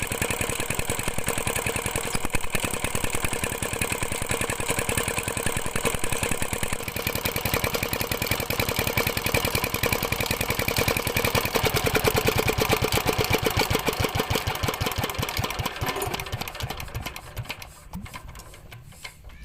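Diesel engine of a tube-well water pump running with a fast, even knocking beat. It fades away over the last few seconds.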